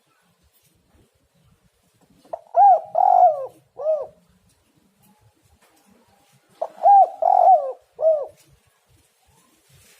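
Spotted dove (tekukur) cooing: two three-to-four-note coo phrases, one about two seconds in and another about four seconds later.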